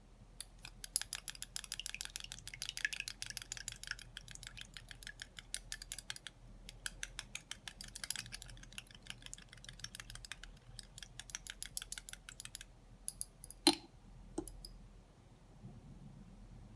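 Rapid light clicking of a small utensil against miniature dishware, in two runs of several seconds each, then one sharp click and a couple of softer ones.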